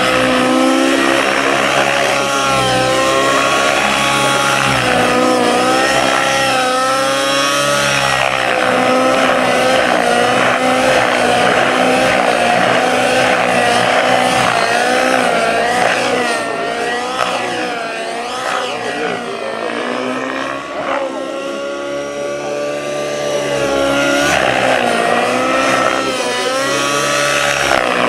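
Radio-controlled model helicopter in flight, its engine and rotor whine wavering up and down in pitch as it is flown through manoeuvres. It grows a little quieter for a few seconds past the middle, then comes back up.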